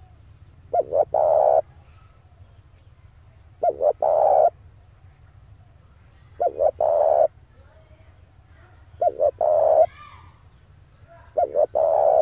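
Male spotted dove cooing: five calls about two and a half seconds apart, each two short notes followed by a longer held note, over a steady low hum.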